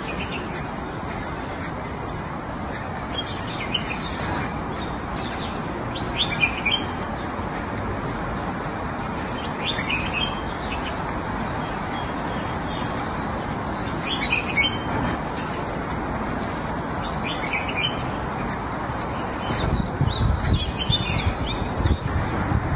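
Small birds chirping, in short scattered calls, over steady outdoor background noise, with a few low rumbling bursts near the end.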